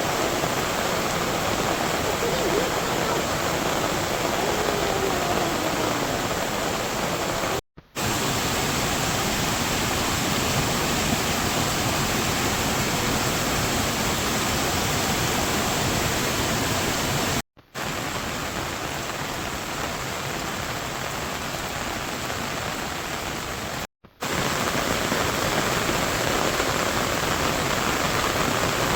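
Heavy rain falling steadily, a dense even hiss, cut off for an instant three times.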